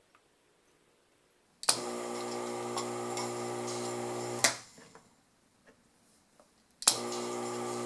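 New electric sump pump motor switched on by its float switch for a short dry test run: a steady hum for about three seconds, then, after a pause, for about two more. A click marks each start and stop.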